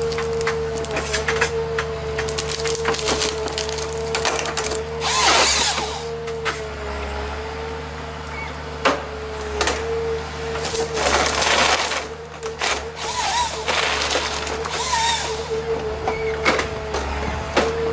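Heavy diesel machine running steadily while wood splinters and cracks under it in irregular crunching bursts, as the machine breaks up timber.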